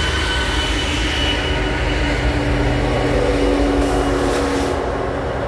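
BNSF loaded coal train's distributed-power diesel locomotives rolling past, a loud, steady rumble of engines and steel wheels on the rails.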